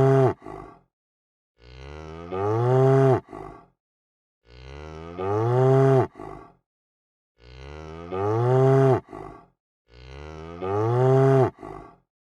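Cow mooing: the same moo repeated at even intervals, about every three seconds. Each call starts softer, swells into a loud bellow that rises and falls in pitch, then stops sharply.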